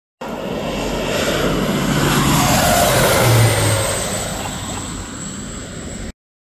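Agricultural spray plane making a low pass overhead: its engine noise swells to a peak midway, then fades as the pitch drops. The sound cuts in and out abruptly.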